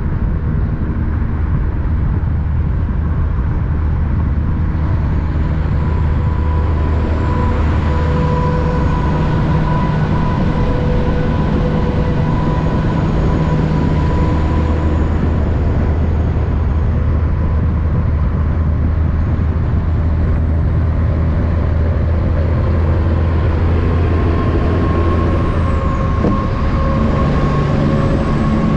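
Heavy truck's diesel engine running steadily with a constant low drone, a faint high whistle rising and falling over it.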